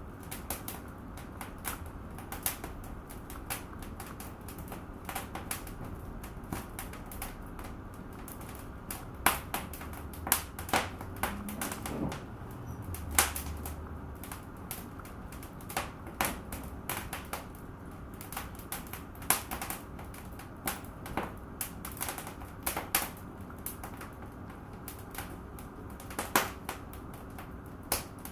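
Wood fire burning in a fireplace: irregular crackling with scattered louder pops over a steady low rumble of the flames.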